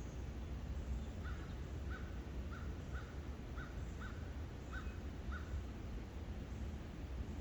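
A bird calling a run of eight short, evenly spaced calls over about four seconds, over a steady low rumble.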